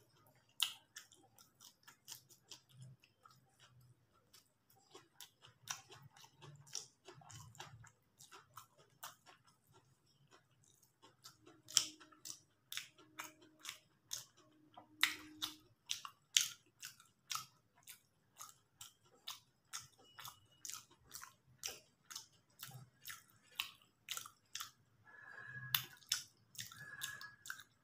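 A person chewing mouthfuls of vegetable chow mein noodles, heard as a steady run of mouth clicks and smacks, about two a second.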